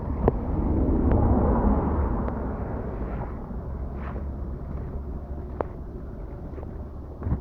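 Rainwater running along a flooded road and into a roadside gully, under a low wind rumble on the microphone that swells about a second in. A few sharp taps are scattered through it.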